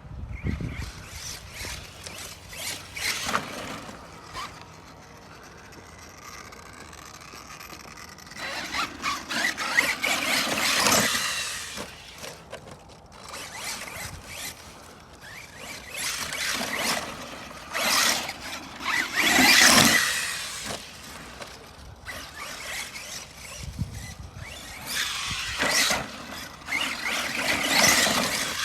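Arrma Mojave 6S RC truck's brushless motor and drivetrain whining in repeated bursts as the truck speeds up and backs off. The loudest runs come about a third of the way in, near the middle and near the end.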